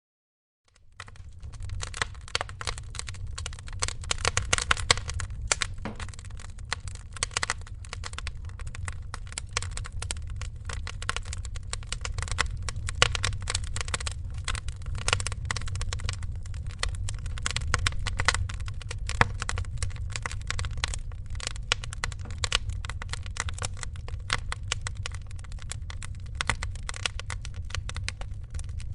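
Wood fire crackling in a fireplace: a dense, irregular run of snaps with a few louder pops, over a steady low rumble. It fades in from silence about a second in.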